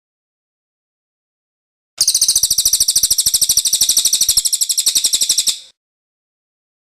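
Cililin bird singing its rolling trill: one fast run of high, evenly repeated notes starting about two seconds in, lasting about three and a half seconds and fading at the end.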